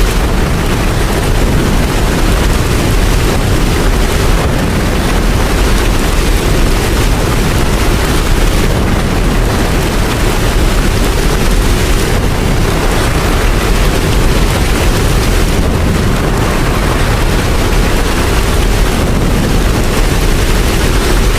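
Steady heavy rain, a dense even hiss with a deep low rumble underneath.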